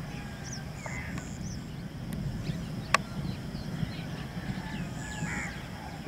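Birds calling: a scatter of short chirps and calls over a steady low rumble, with one sharp click about three seconds in.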